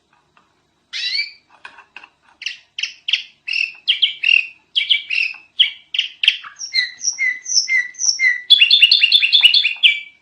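Sooty-headed bulbul (kutilang) singing: a long string of short chirping notes starting about a second in, quickening into a rapid run of notes near the end.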